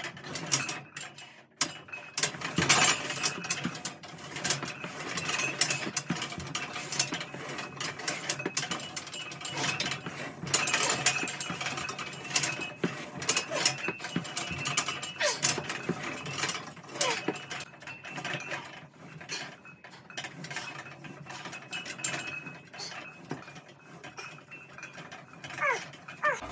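Smith machine bar riding up and down its guide rods under load, with irregular metallic clicks and clanks throughout a set of split squats and calf raises.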